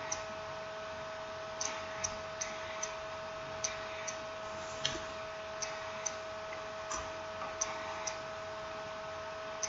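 Light, irregularly spaced clicks and taps of small tools and plastic or metal phone parts being handled, about fifteen in all, over a steady faint tone and hiss.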